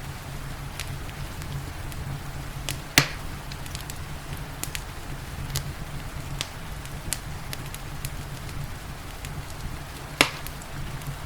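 Wood fire crackling with scattered small ticks and two sharp, louder pops, about three seconds in and near the end, over a steady hiss of rain.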